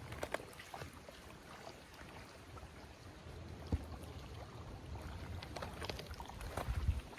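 Water trickling and lapping against a kayak, with scattered small clicks and knocks of handling. There is a sharp click about halfway through and a heavier low thump near the end.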